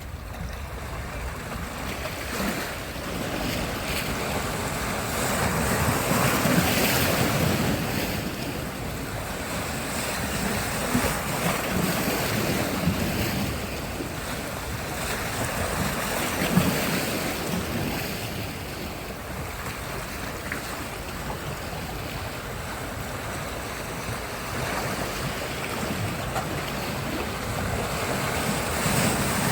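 Sea surf: waves breaking and washing up the beach, the rush swelling and ebbing every few seconds.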